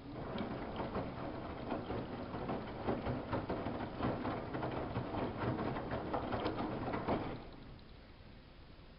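Samsung WF71284 front-loading washing machine's drum turning during a wash, wet laundry and water sloshing and splashing inside. It runs for about seven seconds and then stops as the drum pauses.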